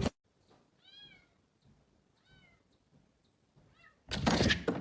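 A cat meowing three times, short faint meows spaced about a second and a half apart, then a loud burst of noise near the end.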